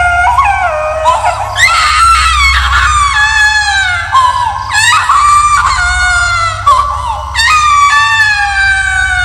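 A baby screaming and wailing in high-pitched cries, several long wails that each fall in pitch, over a steady low hum.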